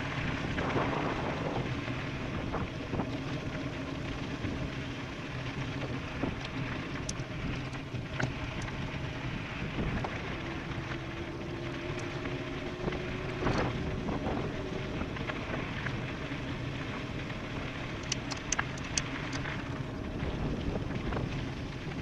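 Wind rushing over the microphone of an e-bike riding at speed downhill, with a few sharp clicks near the end.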